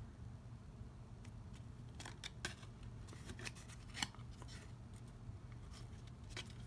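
A few faint, short clicks and taps of small craft tools being handled at a worktable, over a low steady hum.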